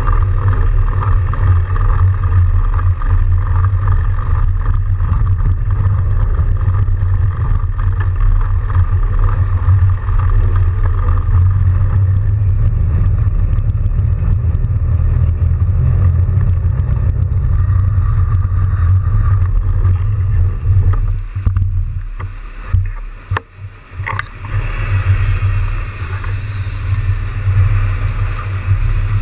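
Riding noise from a fat bike moving through a snowstorm: a steady low rumble of wind and tyres on the microphone. It eases and breaks up briefly a little over twenty seconds in, then comes back with more hiss.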